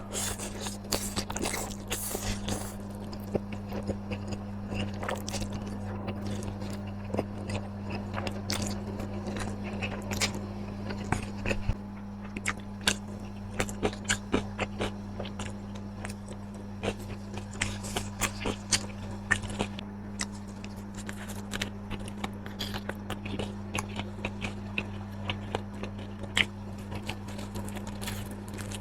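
Close-miked eating: irregular crunchy bites and chewing, with a steady low hum underneath.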